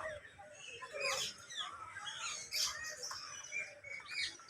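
Many small birds chirping and calling at once: a busy, overlapping chatter of short, quick notes that slide up and down in pitch.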